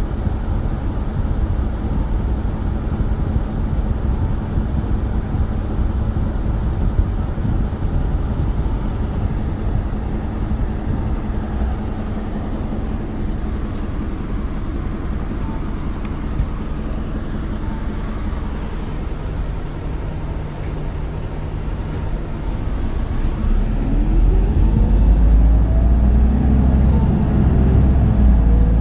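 Interior running sound of an Isuzu Erga city bus (2RG-LV290N3). It hums along steadily and fairly quietly, then about 23 seconds in the engine note rises and grows louder as the bus accelerates, with rising tones sweeping up.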